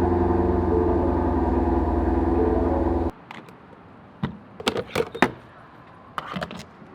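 Shelby GT350's 5.2-litre flat-plane-crank V8 running at a steady fast idle just after a cold start. About three seconds in the sound cuts off abruptly, leaving a few light clicks and knocks.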